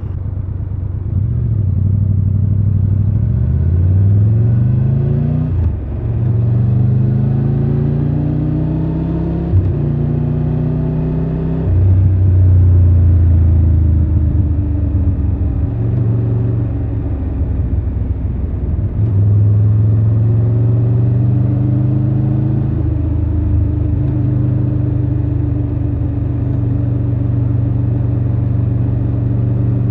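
Triumph Tiger 1200 Rally Pro's three-cylinder engine accelerating through the gears, its pitch rising and then breaking off at each upshift, three times in the first half. It then runs at a steady cruise, easing off briefly just past the middle.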